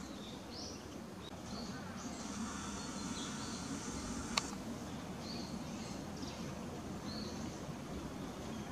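Small birds giving short rising chirps now and then over steady outdoor background noise, with one sharp click about four seconds in.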